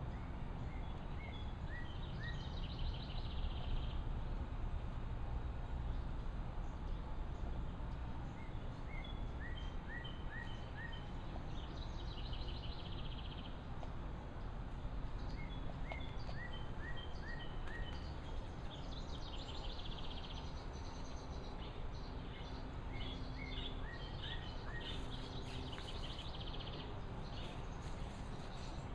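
A small songbird singing the same short song over and over, about every seven or eight seconds: a quick run of short falling chirps ending in a buzzy trill, over a steady low outdoor rumble.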